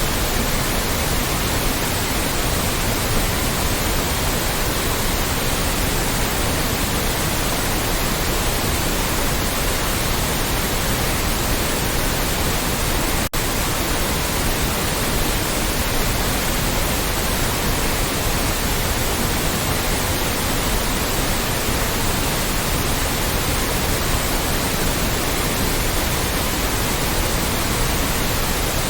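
Loud, steady white noise: an even hiss spread across all pitches, with a split-second dropout about halfway through.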